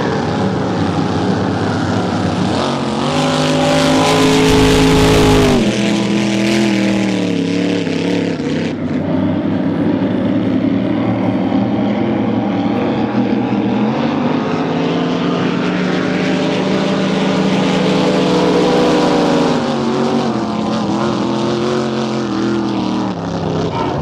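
Racing boat engines running loudly. The pitch climbs and then falls away twice: once sharply about five seconds in, and again more gradually in the second half.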